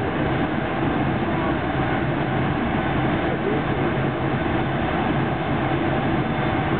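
A JR 373 series electric train running at speed, heard from inside the passenger car: a steady rumble of wheels and running gear on the rails.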